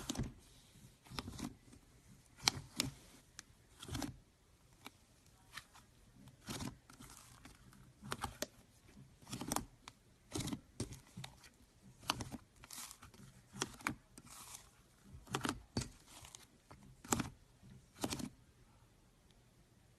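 Slime being squeezed and worked by hand, giving off irregular short sticky pops and crackles, several in quick clusters with quiet gaps between.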